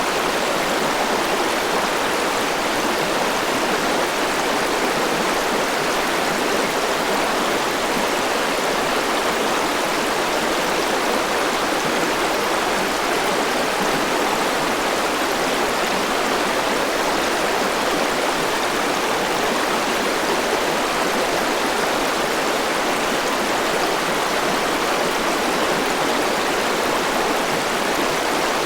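Forest river rushing steadily over rocks: an even, unbroken rush of water.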